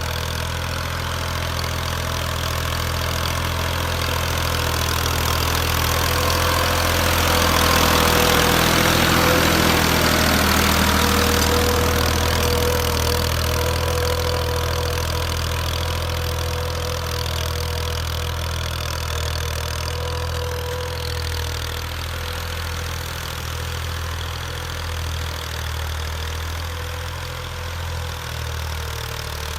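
Massey Ferguson 240 tractor's three-cylinder diesel engine running steadily, growing louder to a peak about a third of the way through and then slowly fading.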